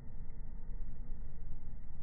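Campfire burning, its sound slowed down with the slow-motion footage into a low, steady rumble.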